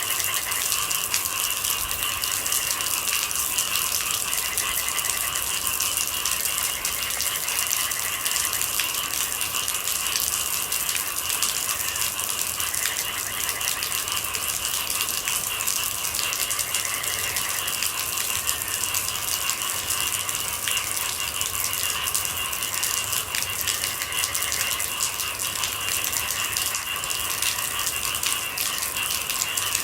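Steady rain, a dense scatter of small drops striking, with a continuous high trill of night insects behind it and a few faint short calls here and there.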